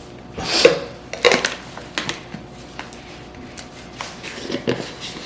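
Kitchen handling sounds of a water bottle and a tub of pre-workout powder: a short rushing burst, then scattered clicks and knocks.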